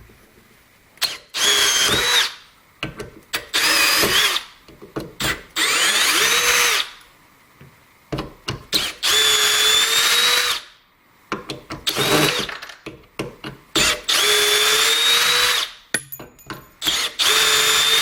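Milwaukee M18 brushless cordless drill in high gear, backing screws out of wood in about seven short runs of one to two seconds each. Its motor whine climbs slightly in pitch during each run. Short clicks come between runs as the bit is set on the next screw.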